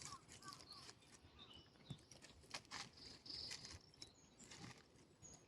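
Near silence outdoors: a few faint, short, high chirps from small birds and some scattered soft ticks.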